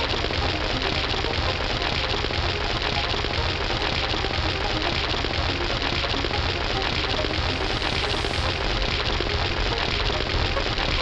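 A steady, dense crackling hiss with no pauses.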